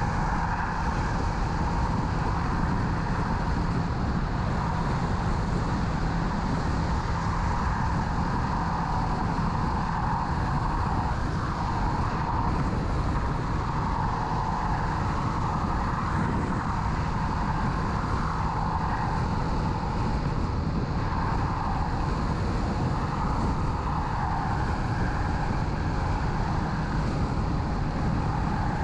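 Kawasaki Z650 parallel-twin motorcycle running steadily on the move, blended with steady wind and road noise, heard through a helmet-mounted recorder.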